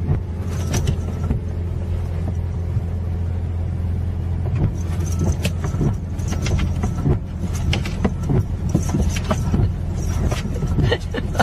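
Steady low mechanical hum, like a running vehicle heard from inside, with scattered short clicks and knocks that grow more frequent in the second half.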